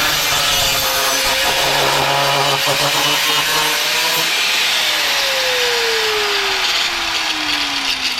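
Power saw cutting through a wooden beam; about five seconds in the motor is released and winds down, its pitch falling steadily.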